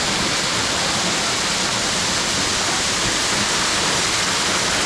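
Waterfall crashing down close by: a steady, loud rush of falling water.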